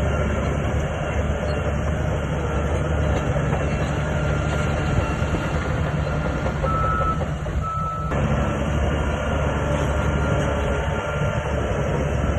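SHANTUI crawler bulldozer's diesel engine running steadily with its tracks clattering, and a few short high squeals near the middle.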